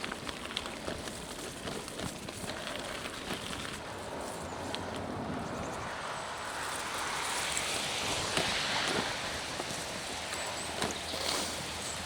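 Gravel bike rolling along a forest trail: a steady rush of tyre noise and wind, with scattered small clicks and knocks from the trail.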